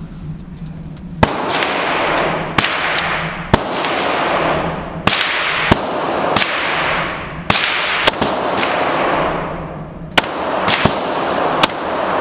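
A string of about eleven handgun shots, irregularly spaced roughly a second apart, each followed by a long echo.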